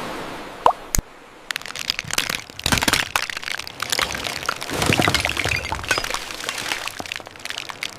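A dense run of sharp cracks and crackles, like a crust breaking up, with two sharp snaps about a second in. The sound is loudest around the middle and thins out near the end.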